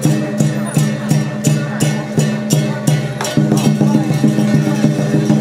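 Lion-dance percussion ensemble: drum and cymbals striking a steady beat of about three strokes a second over low ringing tones.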